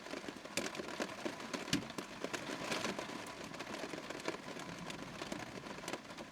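Steady rain: an even hiss dotted with many irregular drop ticks.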